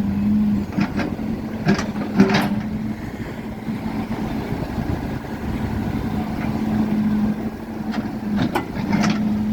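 Diesel engine of a road-construction digging machine running steadily, with a few sharp scrapes and knocks as it works at the road surface. The machine is barely scratching the hard road.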